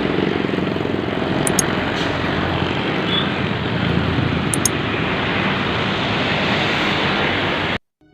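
Truck's diesel engine running loudly and steadily, with a dense rapid pulsing rumble; it cuts off suddenly near the end.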